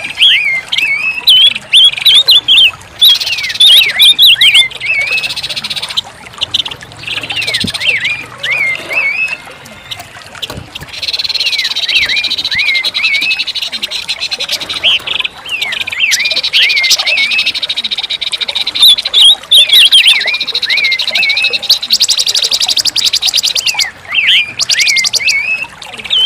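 Pancawarna bird song: a fast run of high, wavy chirps and twitters, broken in places by long buzzing trills and short pauses.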